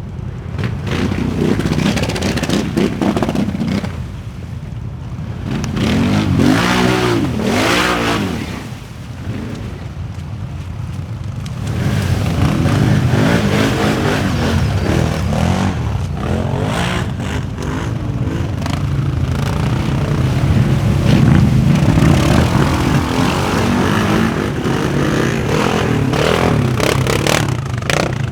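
4x4 ATV engines revving hard under load, their pitch rising and falling again and again with the throttle, over a rough rattling, scraping noise.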